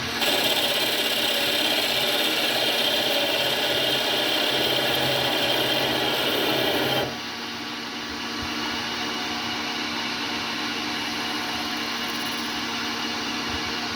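CNC lathe turning a metal hotend part: a steady scraping hiss of the tool in the cut for about seven seconds, which stops suddenly and leaves only the machine's steady running hum.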